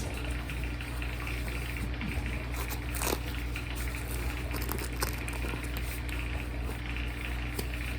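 Steady low hum of room tone, with a single faint click about three seconds in.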